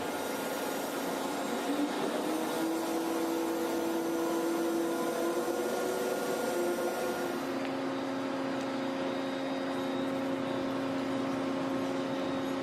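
Steady hum of an electric workshop machine running, its pitch stepping to a new steady tone about halfway through.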